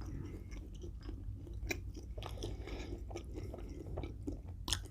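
A person chewing a mouthful of McDonald's meal close to the microphone, with many small, irregular mouth clicks.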